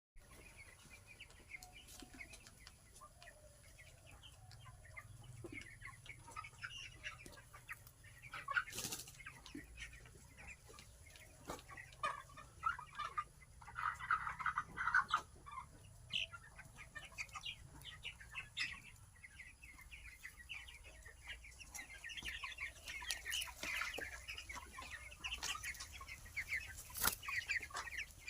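A brood of young chicks peeping and cheeping, many short calls overlapping, busiest near the end. A few sharp knocks or flutters stand out, one about nine seconds in and one near the end.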